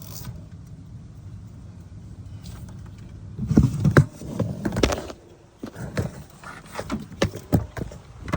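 Clinks, knocks and rattles of bolts, tools and metal parts being handled during AC compressor removal: a low steady hum first, then a quick burst of rattling knocks about three and a half seconds in, followed by scattered clicks and clunks.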